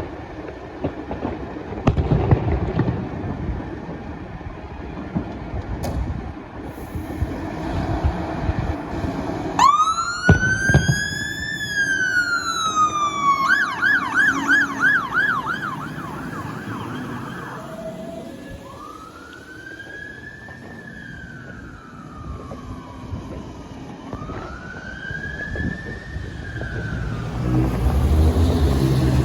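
Traffic noise, then an emergency vehicle's two-tone electronic siren starts about ten seconds in. It gives a slow rising-and-falling wail, switches to a fast yelp for a few seconds, then goes back to two more slow wails. A heavy vehicle's engine rumble grows near the end.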